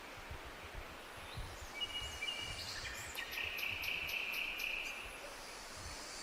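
A bird calling over a steady outdoor rumble and hiss: a couple of short high whistled notes, then a rapid even trill of about five or six notes a second lasting around two seconds.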